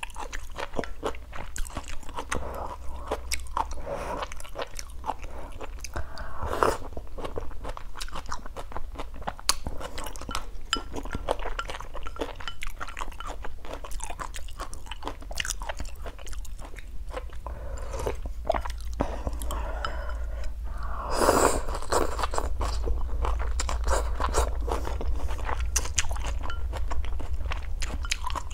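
Close-miked chewing and mouth sounds of a person eating stir-fried chicken and sour soup: wet smacks and small crunchy clicks throughout, louder for a moment around a quarter of the way in and again about three quarters through. A steady low hum runs underneath.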